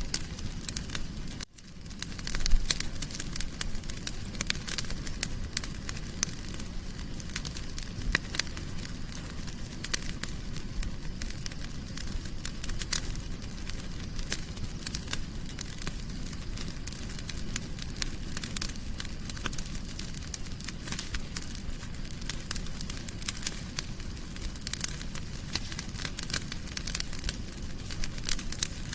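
Wood fire burning in a fireplace, crackling and popping irregularly over a low steady rumble. The sound breaks off briefly about one and a half seconds in, and a louder pop follows a second later.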